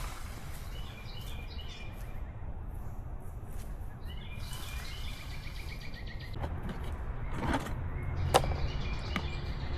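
Steady outdoor background noise with birds chirping, and a few sharp knocks in the second half, one much louder than the rest.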